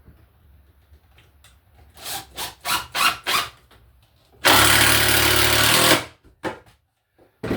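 A few short knocks, then a power drill runs for about a second and a half, driving a screw through a floorboard into a floor joist, and stops abruptly.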